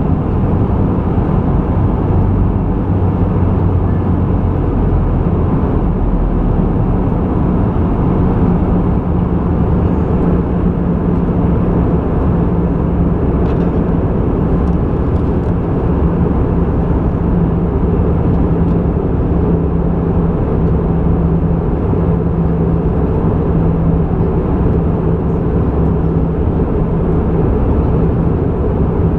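Airbus A320 cabin noise in flight: a steady deep rumble of engines and airflow, with a low hum running under it.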